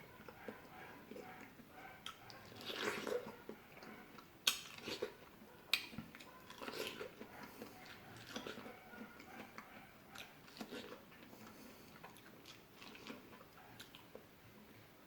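A person biting and chewing fresh fruit close to the microphone, with wet, crunchy mouth sounds. Two sharp, loud bites come about four and a half and six seconds in, followed by irregular softer chewing.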